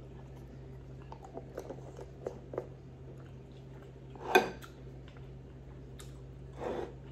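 A person chewing a mouthful of food with the mouth closed: soft wet clicks and smacks in the first few seconds, a louder short mouth sound about four seconds in, and a breathy exhale near the end, over a low steady hum.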